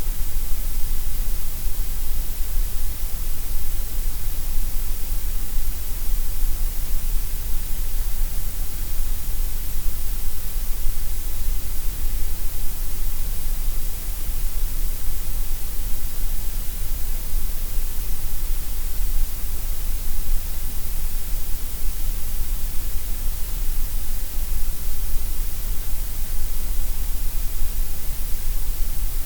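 Gray noise: a steady, unchanging synthetic hiss, loud, with a heavy low rumble and a bright top and thinner in the middle frequencies.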